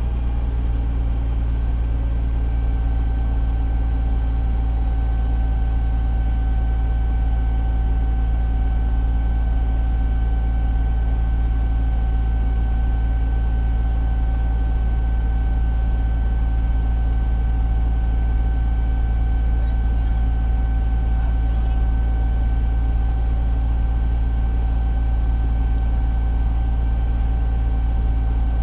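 Fire engine's diesel engine running steadily, heard from inside the cab as a constant deep rumble with a thin steady whine over it.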